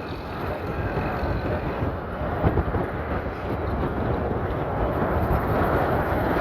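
Steady road and wind noise of a moving vehicle.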